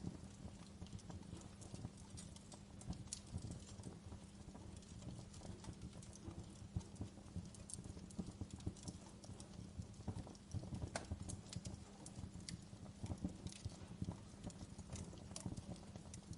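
Wood fire burning in a fireplace, crackling and popping irregularly over a low, steady rumble of the flames. The pops are sharp and scattered, a few of them louder, about ten seconds in.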